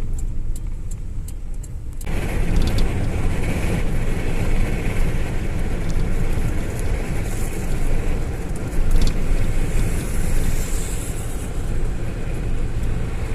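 Road noise from a moving car: a steady low rumble of engine and tyres, with faint regular clicks in the first two seconds. About two seconds in, the noise grows louder and hissier and then stays steady.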